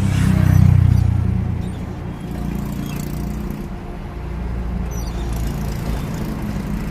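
An engine running steadily with a low hum, louder for the first second and a half and then holding level.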